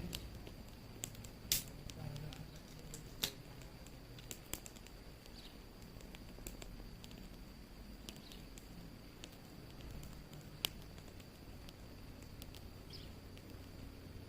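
Wood fire crackling: irregular sharp snaps and pops over a low steady rumble, with a few louder pops, two in the first few seconds and one about two-thirds of the way through.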